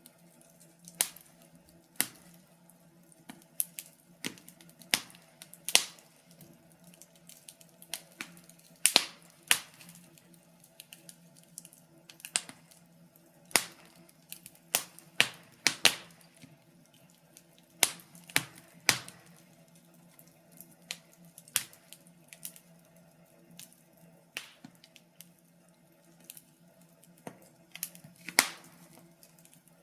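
Wood fire crackling in a fireplace: irregular sharp pops and snaps, a few a second, some louder than others, over a faint low hum.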